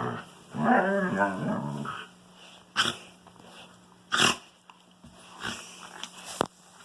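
Wolfdog giving a wavering, pitched vocalization lasting about a second and a half, followed by three short, sharp noises spread through the rest of the time.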